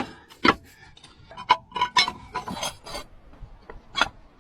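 Irregular metallic clinks, knocks and scraping from hands and tools working on a steel crawler track, about a dozen separate sharp strikes.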